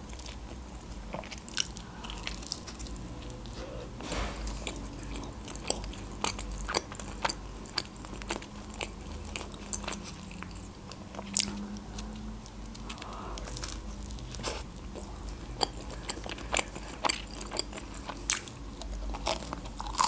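Close-miked chewing of homemade pizza: irregular crisp crunches of the crust and wet mouth clicks, with a louder bite about eleven seconds in.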